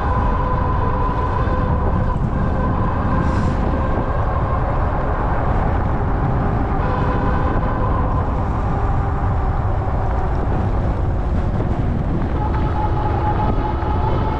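Ariel Rider Grizzly e-bike's electric motor whining steadily while riding, its pitch drifting slightly with speed, over a steady rumble of wind and road noise.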